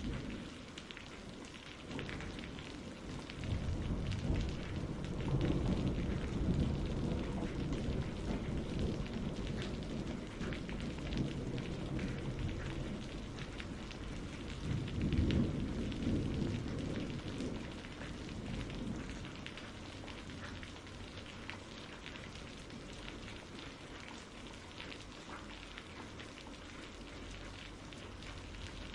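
Steady rain pattering, with low rolling thunder that swells up a few seconds in and again about halfway through before fading.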